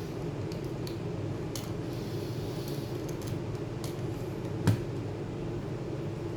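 Small clicks and one sharp knock of tools and parts being handled during laptop disassembly, about four and a half seconds in, over a steady low hum.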